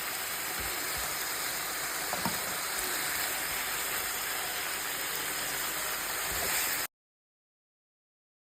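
Beef frying in a pan, a steady sizzle that cuts off abruptly about seven seconds in.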